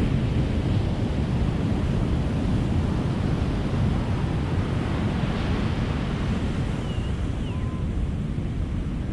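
Ocean surf: a steady rush of waves breaking on a beach, with one wave swelling and washing in about five seconds in.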